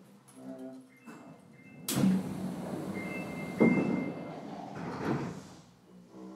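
Sliding doors of a Sapporo subway 5000-series train car at a station stop, moving and closing with three thuds, a few short high tones between them.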